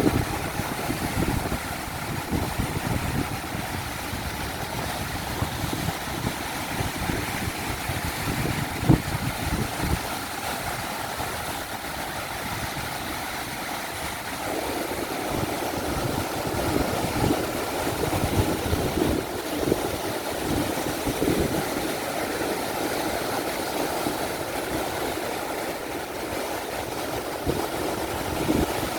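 Ocean waves breaking and washing in under strong wind, with the wind rumbling and buffeting the microphone in irregular gusts.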